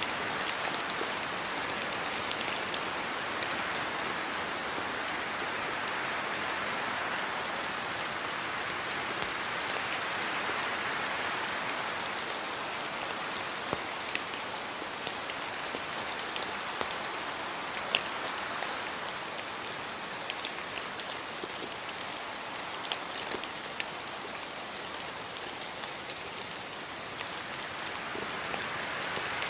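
Steady rain falling, with occasional sharp ticks of individual drops hitting a surface standing out above the even hiss.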